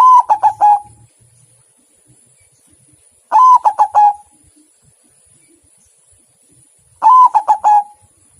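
White zebra dove (perkutut) cooing its song three times, every three to four seconds. Each phrase is a held note that breaks into a few quick, throaty pulses.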